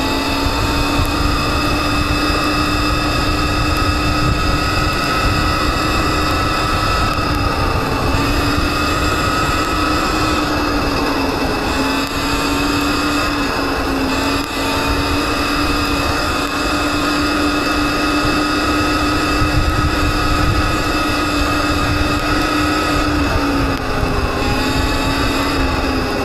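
Viper S electric dirt bike's motor whining steadily as it is ridden through mud, its pitch dipping briefly about twelve seconds in and again near the end, over a low rumble of wind and ground noise.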